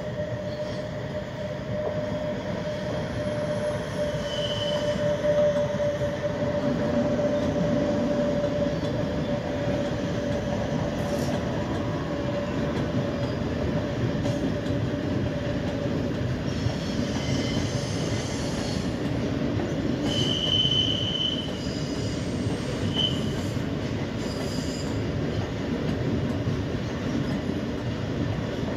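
Passenger train rolling past on the rails, a steady rumble of wheels and coaches throughout. A held tone fades out over the first half, and short high-pitched wheel squeals come a few times, about four seconds in and again near twenty seconds.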